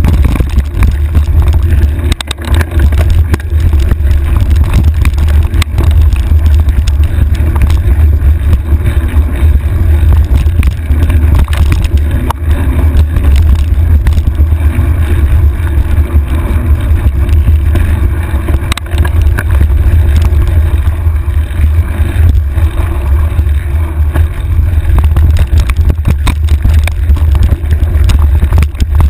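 Mountain bike descending a rough, rocky trail, heard through a handlebar-mounted camera: a loud, steady low rumble of wind and vibration on the microphone, with frequent clicks and knocks as the bike rattles over the ground.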